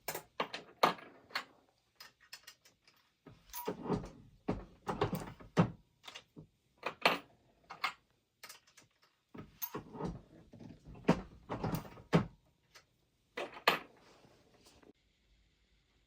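Irregular clicks, clunks and clattering of rifle-cartridge reloading tools and parts being handled and worked, stopping shortly before the end.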